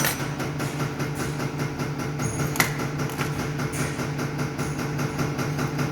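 A workshop machine running steadily with a low hum and a fast, even pulsing. A single sharp metallic click sounds about two and a half seconds in.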